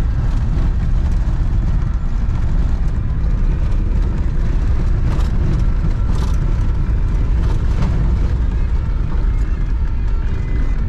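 Old Land Rover Tdi turbodiesel driving along a rough farm road: steady low engine drone and road rumble, with a few short knocks or rattles about halfway through.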